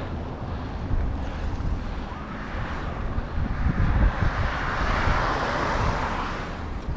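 Wind buffeting the microphone over the rumble of passing traffic, with a vehicle's noise swelling and passing about four to six seconds in.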